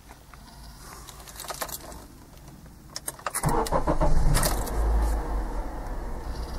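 A few light clicks and jingles of keys at the ignition. A little over three seconds in, the car's engine cranks and catches, runs up briefly, then settles to a steady idle.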